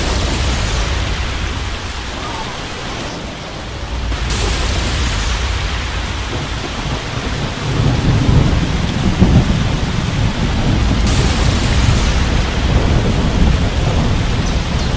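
Steady heavy rain with rolling thunder, the low rumble swelling loudest in the middle.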